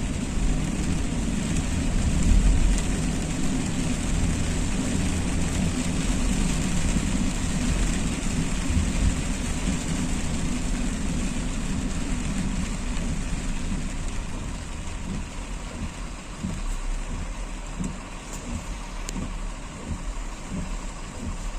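Car driving in rain: a steady hiss of rain and wet road noise over a low rumble of engine and tyres, easing a little in the later part.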